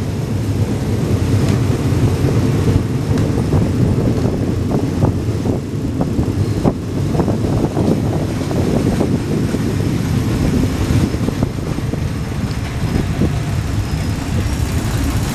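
Passenger train carriage running along the track, heard from an open window: a steady, loud low rumble of wheels on rails with rushing air and occasional sharp clicks.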